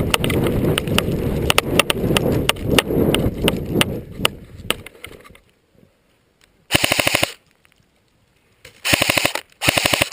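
Airsoft gun firing three short full-auto bursts in the second half, each about half a second of rapid, evenly spaced shots. Before that there is a loud rustling noise with scattered sharp clicks, which fades out about five seconds in.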